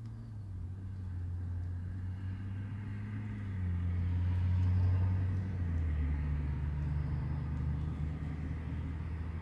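Car engine running with a steady low hum, its pitch shifting a couple of times and loudest about halfway through.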